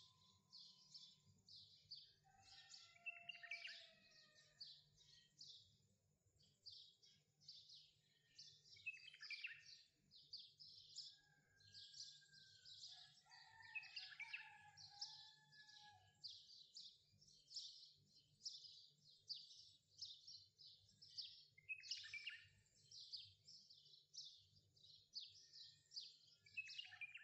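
Faint birdsong: several small birds chirping and twittering rapidly and continuously, with a few short gliding whistles, over a low steady hum.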